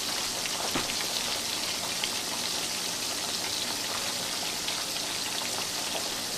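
Breaded bone-in pork chops shallow-frying in hot oil in a skillet: a steady sizzle full of fine crackling pops as the crust builds.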